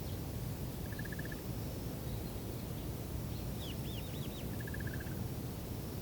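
Wind blowing across an open rice field as a steady low rush, with small birds calling over it: a short rapid trill about a second in and again near five seconds, and a quick run of five high, arched chirps around four seconds.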